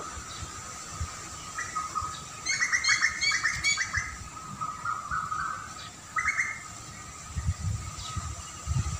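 Songbirds chirping, with a quick run of sharp chirps about two and a half seconds in and a short burst of calls around six seconds. Low rumbles come in near the end.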